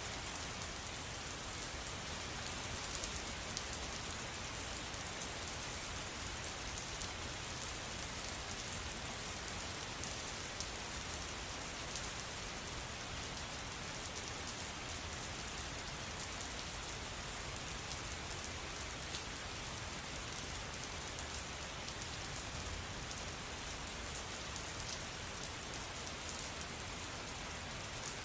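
Steady rain falling: an even hiss with many small, sharper drop ticks scattered through it.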